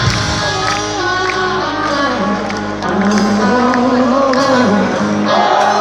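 Rock band playing live in an arena: electric guitar and bass with drums, a sung line near the end, with hall echo.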